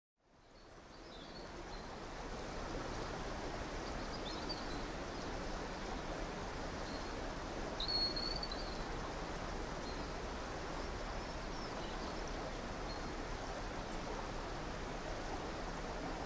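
Nature ambience of flowing river water, a steady rush that fades in over the first couple of seconds, with a few faint bird chirps.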